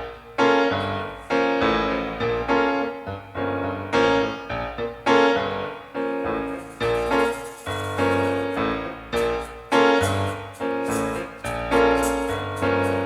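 Piano playing a chordal introduction, chords struck in a steady rhythm about one to two a second, each left to ring and fade.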